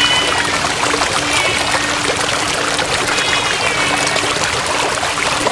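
Storm sound of heavy rain and rushing water, with a few short, high, wavering cries rising over it.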